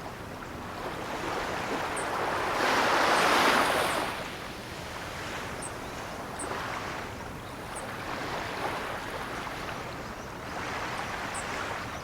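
Ocean waves washing onto the shore in slow surges, the biggest one swelling and falling away about three seconds in, with gentler surges later.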